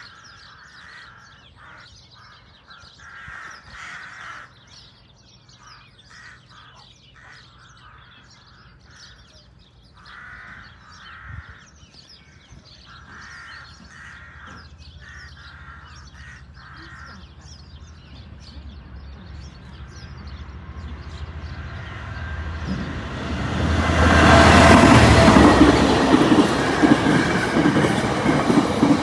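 Crows cawing on and off, then a train approaching: a low rumble grows from about 18 seconds in and becomes a loud passing train about 24 seconds in.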